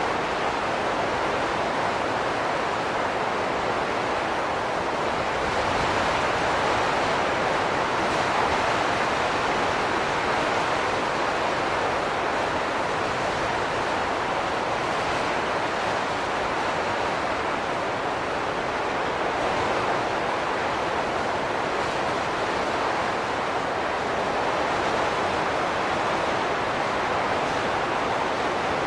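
Steady wind noise, a dense even rush with slow gentle swells and no gusting breaks.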